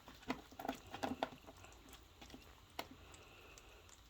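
Puppies chewing and smacking at their food: a quick run of short wet clicks in the first second and a half, then one more about three seconds in.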